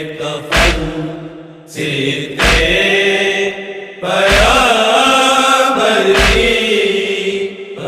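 Urdu noha lament chanted by a party of reciters in a slow, wavering melody. A heavy thump lands about every two seconds, four times: the chest-beating (matam) that keeps time in a noha.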